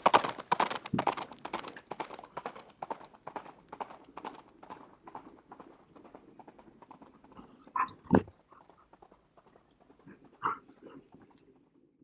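A dog's claws clicking and scrabbling rapidly on a hard floor, thinning out over the first few seconds, then a few short, sharp sounds, the loudest about eight seconds in.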